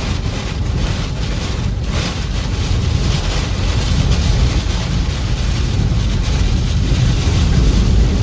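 Tornado-strength wind rushing over a vehicle and its microphone, a loud steady rushing that grows slightly louder toward the end.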